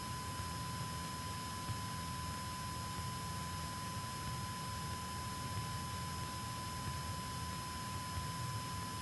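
Steady in-flight cabin noise of a Cessna 172K Skyhawk, heard through the intercom and radio audio feed: a low, even engine drone under a constant hiss, with a thin steady high tone.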